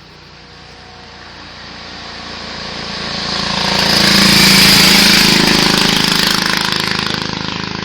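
A car driving past: its engine grows steadily louder as it approaches, is loudest about four and a half seconds in, then fades as it moves away.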